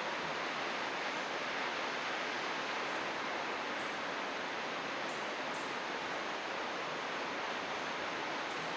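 Steady rush of running water, an even hiss with no change in strength.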